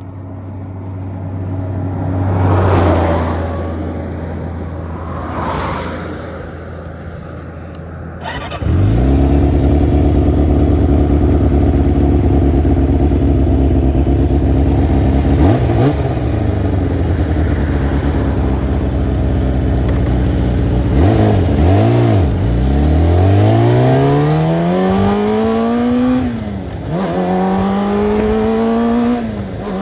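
Sport motorcycle engine: a low hum with two passing whooshes, then a loud steady idle from about a third of the way in. Near the end it accelerates hard through the gears, the pitch climbing and dropping sharply at two upshifts.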